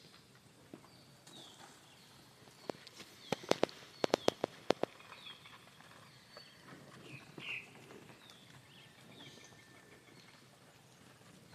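Birds calling with short falling chirps, repeated over and over. A little under three seconds in comes a quick run of about ten sharp clicks or knocks over two seconds, the loudest sound.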